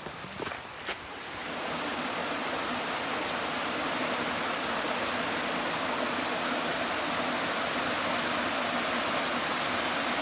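Rushing water of a brook tumbling over rocks and small falls: a steady, even hiss that swells up about a second and a half in, after a couple of light clicks.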